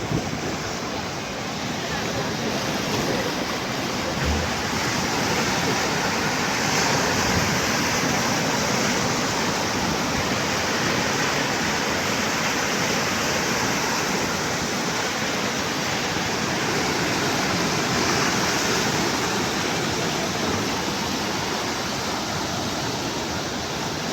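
Sea waves washing in continuously, a steady surf noise with only slight swells in strength.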